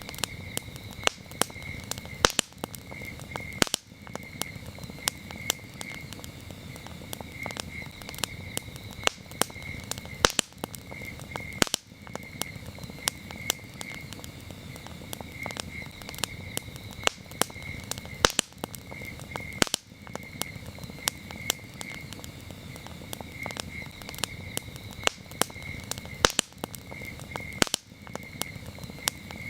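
Campfire crackling, with sharp wood pops every second or so, over crickets chirping in a steady high pulsing trill.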